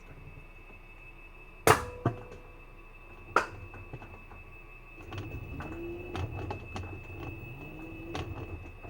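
Washing machine in its spin cycle: a steady high whine over a low rumble, with short creaking glides and three sharp knocks in the first few seconds, the first the loudest.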